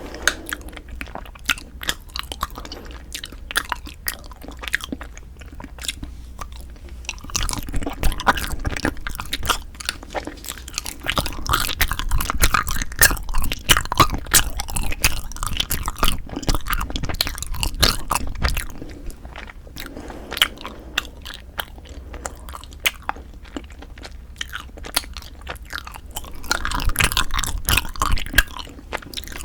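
Close-miked ASMR chewing and biting, with many small crisp clicks and mouth sounds. The chewing grows louder from about seven seconds in to about eighteen, and again near the end.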